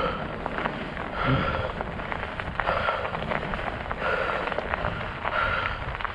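Studded fat-bike tyres crunching and crackling over snow and ice: a dense run of small clicks with a louder swell roughly every second and a half.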